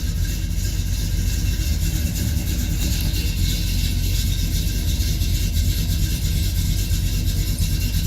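The 400 cubic inch V8 of a 1969 Pontiac GTO Judge idling steadily.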